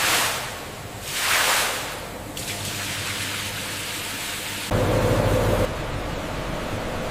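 Steady noisy hiss, opening with two whooshes about a second apart, with a louder low hum that sets in suddenly about halfway and stops about a second later.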